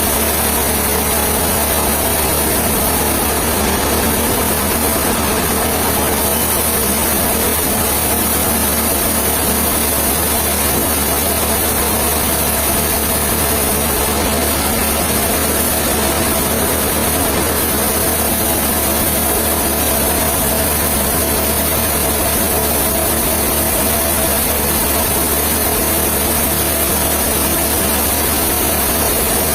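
An engine running steadily without change, with a constant high hiss over it.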